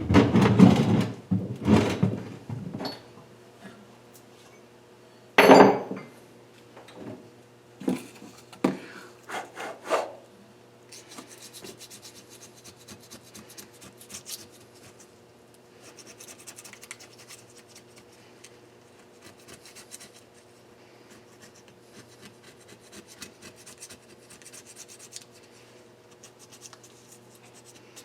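Metal engine parts being handled, with a few sharp knocks in the first ten seconds, then a faint, steady run of small rubbing strokes, the sound of hand-cleaning engine parts.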